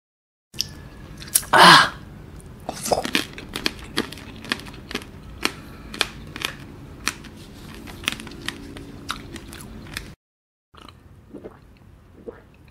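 Close-miked crunching and chewing of a candied blackberry tanghulu: the hard sugar shell cracks in many sharp crunches between the teeth, the loudest about one and a half seconds in. Near the end come a few softer gulps of a drink.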